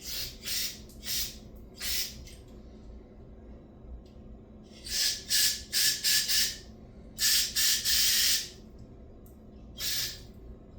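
Aerosol carburetor cleaner sprayed onto a small-engine carburetor in hissing blasts: a few short squirts, a quick cluster of them, then one longer spray of about a second, some with a faint whistle from the nozzle.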